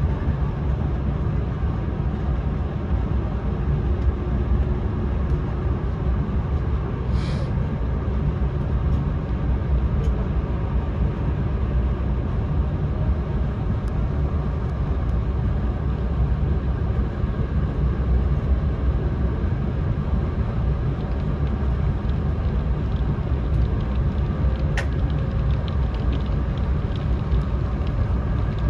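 E4 Series Max double-decker Shinkansen running, a steady low rumble of the train heard from inside the car. A brief hiss sounds about seven seconds in.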